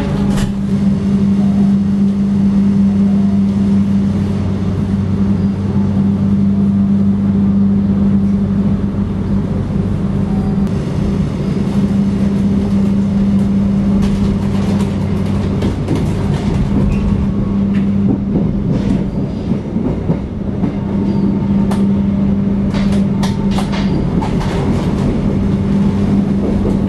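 Passenger train running, heard from inside the carriage: a steady rumbling drone with a constant low hum, and sharp clacks of the wheels over rail joints, a quick run of them near the end.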